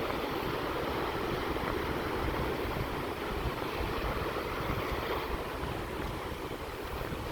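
Steady sea surf washing in, with wind buffeting the microphone as a choppy low rumble.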